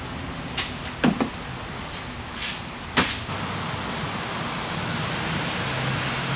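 A few sharp clicks and knocks, the loudest about three seconds in, then a Dodge Durango's engine running steadily at low speed as the SUV rolls slowly forward, a low hum that grows a little louder near the end.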